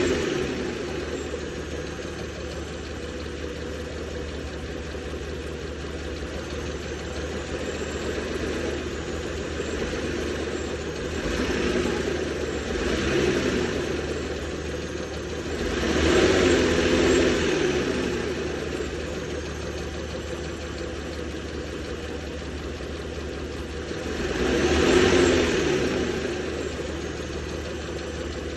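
Ford Explorer engine idling and briefly revved up and back down about four times. The owner is showing a tick that appeared after the timing guides and tensioners were replaced.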